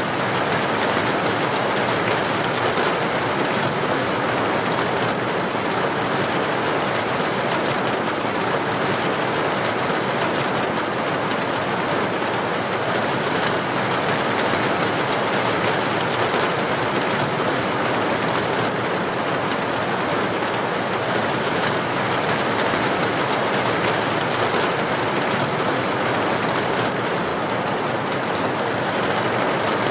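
Heavy rain falling steadily on a street, an even, unbroken hiss with no distinct thunderclap.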